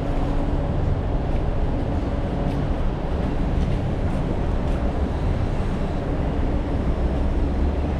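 Steady low rumble of a moving vehicle, with no sudden events.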